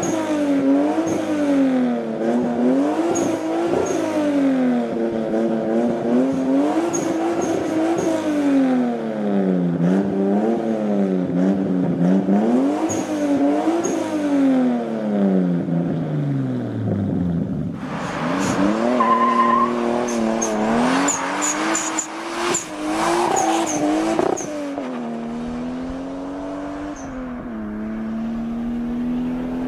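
Toyota Supra Mk4's straight-six engine revved repeatedly while standing in a parking garage, its pitch climbing and falling every couple of seconds before dropping back low. About two-thirds of the way through the sound changes to the car out on the road: a rougher, noisier stretch of hard driving with a brief squeal, then a steadier engine drone.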